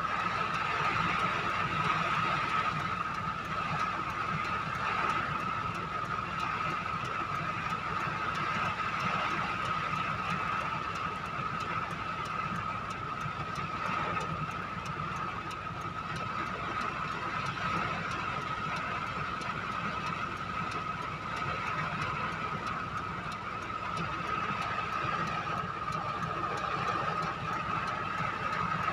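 A vehicle running steadily through a windy rainstorm: a constant engine drone with a steady whine, under an even hiss of wind and rain.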